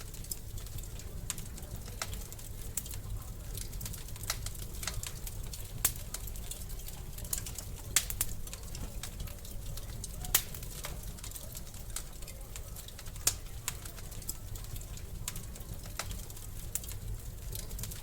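Wood fire crackling in a fireplace: irregular sharp pops and ticks, with a few louder snaps every couple of seconds, over a steady low rumble of the flames.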